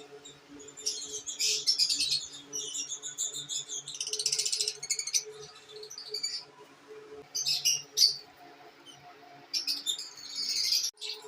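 Lovebirds chirping and chattering in repeated bursts of high, rapid twittering, over a faint steady hum.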